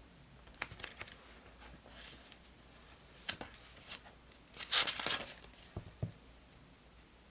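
Paper-crafting supplies being handled on a desk: light crinkles and clicks, then a short, loud ripping sound a little over halfway through, followed by two soft taps.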